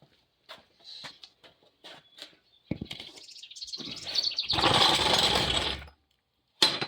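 Jack with a wooden block on it being pushed into place on the ground: a few light taps, a sharp knock, then about three seconds of loud scraping and rolling, and another sharp knock near the end.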